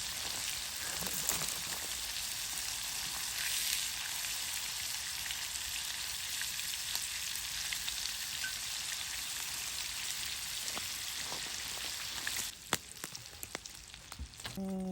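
Steak sizzling in butter in a pan: a steady frying hiss that stops abruptly about twelve seconds in. A few sharp clicks and knocks follow.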